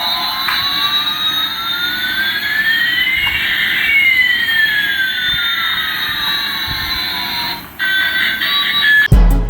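Toy airliner's electronic jet-engine sound effect, played through a small speaker: a hissing rush with one whine rising and another falling, crossing in the middle. It cuts off near the end, followed by a few short beeps.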